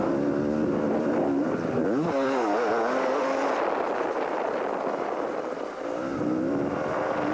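250cc motocross motorcycle engines revving hard, their pitch climbing and dropping repeatedly with the throttle, with a brief dip about six seconds in.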